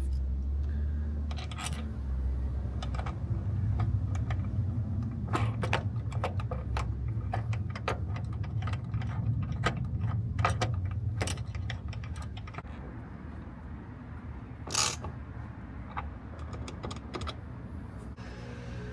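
Hand tools fastening an engine mount's bolts: irregular metallic clicks and clinks over a low steady hum.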